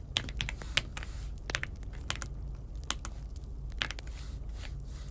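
Scattered single keystrokes on an Aula F75 mechanical keyboard: irregular clicks, one or two a second with pauses between, over a low steady hum.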